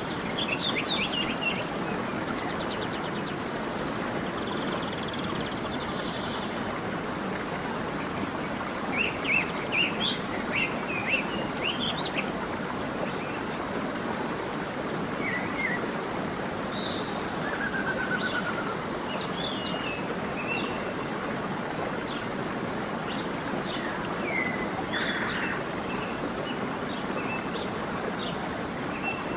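A stream running steadily, with songbirds chirping in short scattered phrases over it, busiest about a third of the way in and again past the middle.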